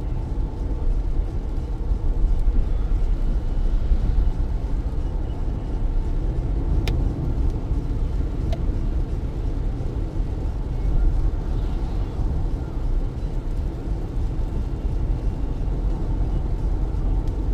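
Car driving on wet roads in heavy rain: a steady, low rumble of tyres and road noise with rain over it. Near the middle there are two short clicks about a second and a half apart.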